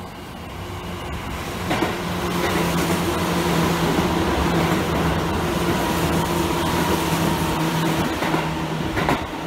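Seibu 10000 series limited-express train passing through the station at speed: loud rush of wheels on rail that builds over the first two seconds, holds steady with a constant drone from the running gear, then eases off near the end as the last car goes by. Sharp clicks of wheels over rail joints about two seconds in and again near the end.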